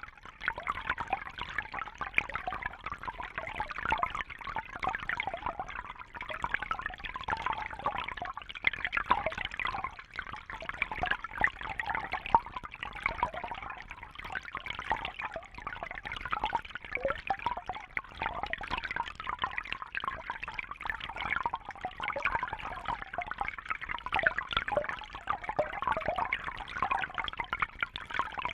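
Steady bubbling and trickling of water in a fish tank, a busy patter of small splashes and bubbles with no letup.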